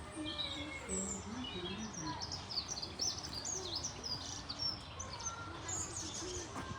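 Many birds chirping and twittering together in a dense chatter, busiest in the middle, with some lower calls underneath.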